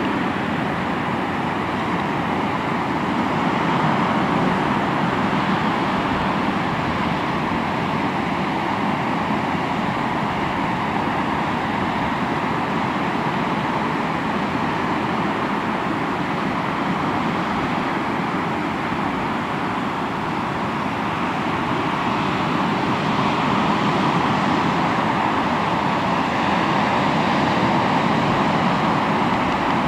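Sea waves washing on the shore: a continuous surf rush that swells slowly, louder about four seconds in and again near the end.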